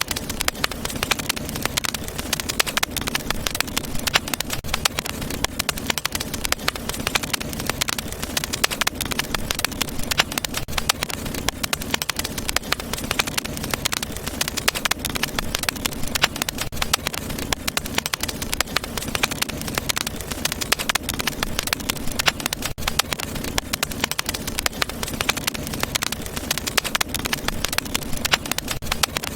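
Wood fire burning in a fireplace, crackling with many small irregular pops over a steady hiss.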